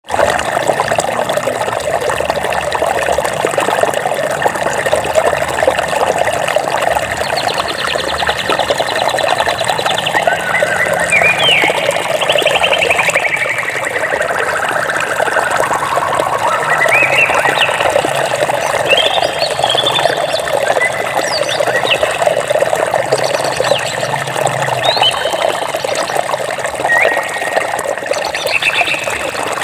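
Water running steadily, with birds chirping and trilling over it from about seven seconds in: short rising and falling calls and a few quick trills.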